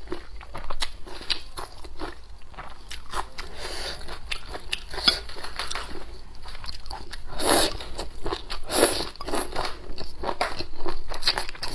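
Close-up eating sounds of a person chewing crunchy kelp strips in spicy dressing with rice: many quick wet crunches and mouth clicks, with two louder bursts about seven and a half and nine seconds in.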